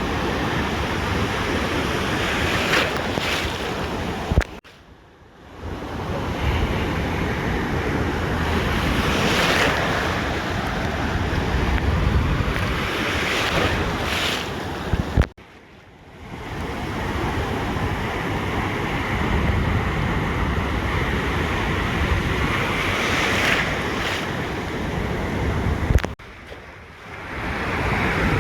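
Ocean surf washing onto a beach, a steady rush that swells as waves break, with wind rumbling on the microphone. Three times the sound is cut off abruptly after a click, dropping away for about a second before coming back.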